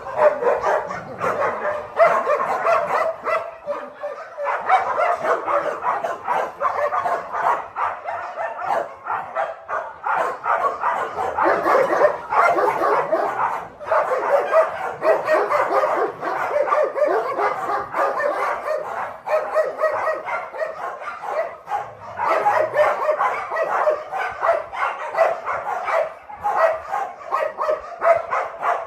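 Many dogs barking and yipping at once, a dense, unbroken chorus of overlapping barks from a shelter full of dogs.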